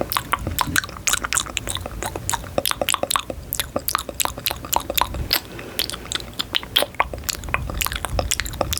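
Close-miked run of many crisp little clicks and crackles, irregular and quick.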